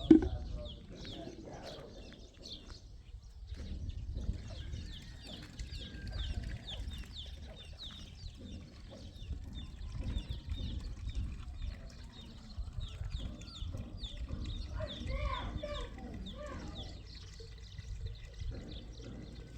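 Birds calling: a rapid run of short high chirps, several a second, over a steady low rumble, with a brief lower call about fifteen seconds in. A sharp knock right at the start is the loudest moment.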